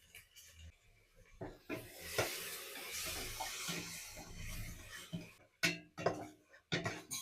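Water running or pouring for a few seconds, then four sharp knocks near the end.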